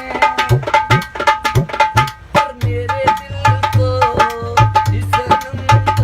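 Indian hand drum played in a fast, busy rhythm, tabla-like: ringing high strokes over deep bass strokes that bend in pitch.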